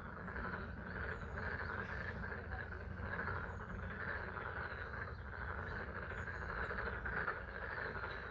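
A chorus of many frogs calling together, a steady dense band of calls, over the sound of falling rain.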